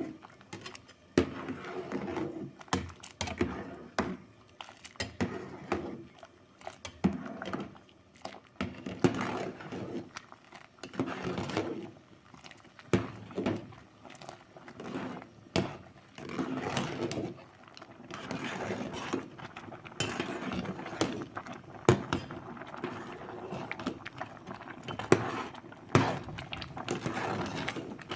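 Kitchen work sounds: pots, dishes and utensils clinking and knocking at irregular intervals, between short bursts of scraping or rustling noise.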